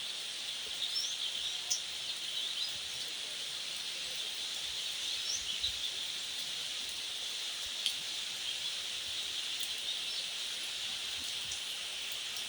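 Steady hiss of fine, light rain falling, with a few short bird chirps and a single sharp tap about eight seconds in.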